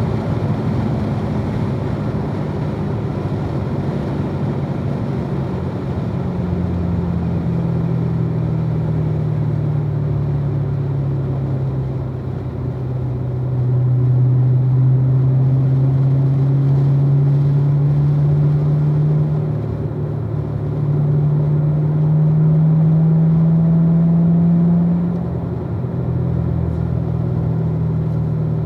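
2016 Corvette Z06's supercharged 6.2-litre LT4 V8 running hard on track, with tyre and wind noise. It gets louder in two long pulls, one from about halfway through and one near the end, each with the pitch slowly climbing, and eases briefly between and after them as the throttle comes off.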